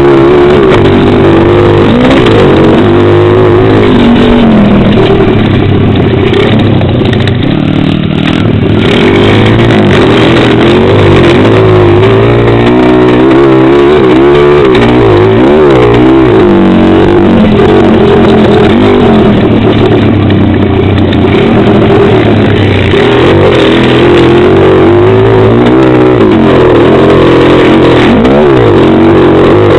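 Pit bike engine being ridden hard: loud, revving up and down continuously as the rider opens and closes the throttle and changes gear.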